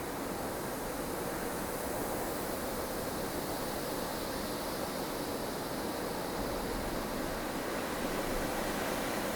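Wind of a blustery snowstorm blowing steadily, a dense even rush that swells slightly.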